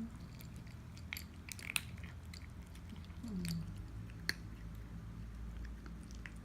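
Cat eating dry crunchy food, with irregular crunches and chewing. There is one short low falling sound about three seconds in.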